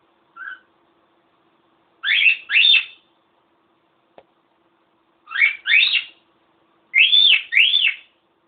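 Cockatiel whistling: a brief soft chirp near the start, then three pairs of quick whistled notes, each note sweeping up and back down in pitch. A single faint click falls between the first and second pair.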